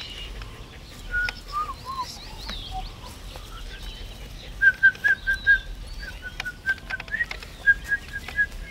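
Birds chirping with scattered short whistled calls, then a run of short, evenly repeated whistled notes at one pitch through the second half.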